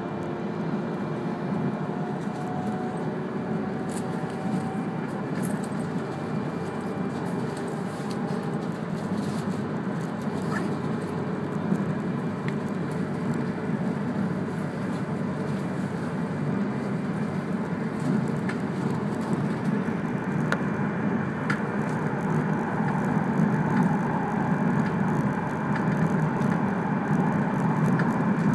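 Steady running rumble of an E3-series Akita Shinkansen train, heard from inside the passenger car as it runs on the Ōu Line. A faint whine rises slowly in pitch over the first nine seconds or so, and the rumble grows a little louder near the end.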